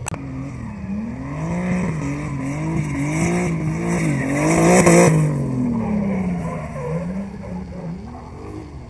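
Drift car's engine revving up and down as the throttle is worked through a slide, with tyre hiss. It builds to its loudest about five seconds in as the car passes, then fades as it moves away.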